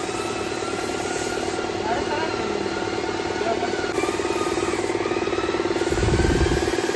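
A steady mechanical hum with a fast pulse, like a running motor, with faint distant voices; a brief low rumble about six seconds in.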